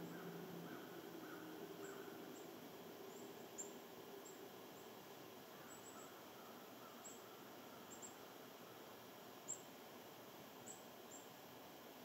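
Faint wild birds calling: a low, repeated call in the first few seconds, then short, high chirps scattered throughout.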